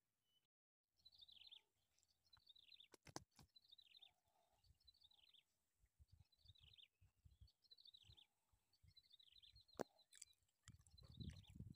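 Faint bird calls: short, falling chirps repeated about once a second, with a few sharp clicks and some low handling rumble near the end.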